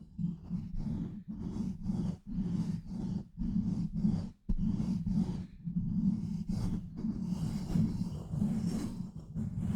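ASMR hand sounds on a microphone: fast, rhythmic mic pumping, hands cupping and squeezing over the mic, giving muffled whooshing pulses about two to three a second. In the last few seconds these blur into denser, continuous rubbing and scratching on the mic.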